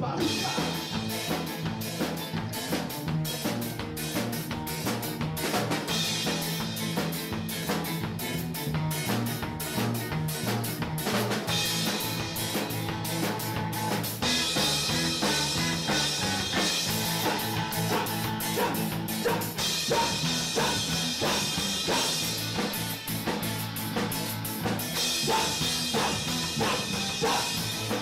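A band playing live without singing: a drum kit keeps a steady beat over moving bass notes, with cymbals washing in more strongly for several stretches.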